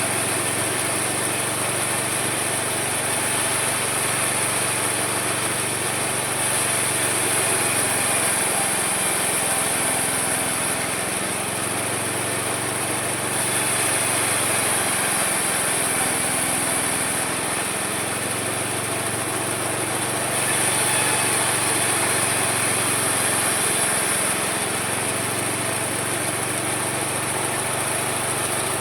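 Homemade mini sawmill running steadily while sawing wood, its high cutting hiss swelling in repeated stretches of a few seconds, about every seven seconds.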